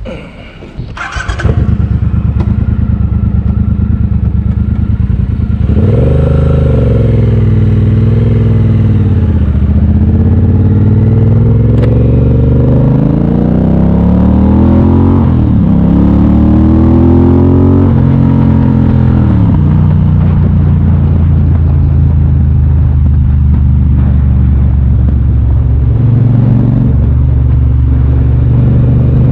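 Triumph Bobber's parallel-twin engine and exhaust, loud, as the bike pulls away and accelerates. The engine note climbs, drops sharply at gear changes about halfway through and again a few seconds later, then settles into a steady cruise.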